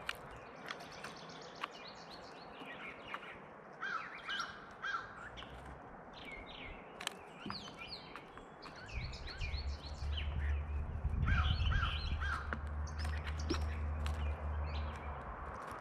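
Several birds chirping and calling in short, repeated notes, with a low rumble coming in about nine seconds in.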